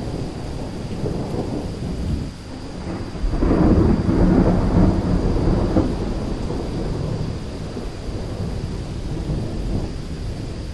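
Thunderstorm with a continuous low thunder rumble over steady rain. A louder roll of thunder swells up about a third of the way in and fades away over the next few seconds.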